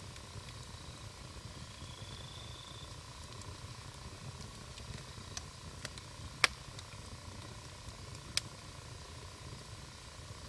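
Wood campfire burning with a low steady rumble, and a few sharp crackling pops from the burning wood, the loudest a little past halfway.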